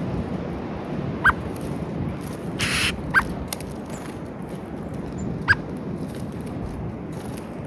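Birds at a peanut feeder giving short, squeaky single calls, three in all about two seconds apart, with a brief rustle in between over a steady outdoor hiss.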